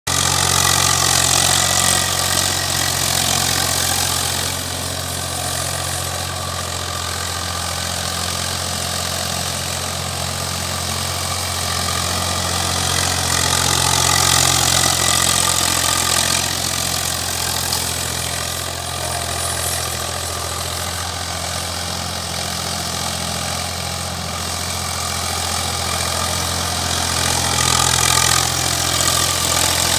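Tractor's diesel engine running steadily at an even speed, with no revving.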